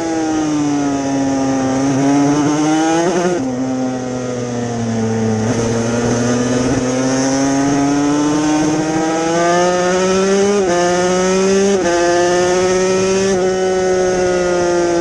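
Yamaha TZ250 two-stroke twin racing engine at high revs under way. Its pitch falls and climbs with the throttle and breaks suddenly at several gear changes, with a steady rush of wind over it.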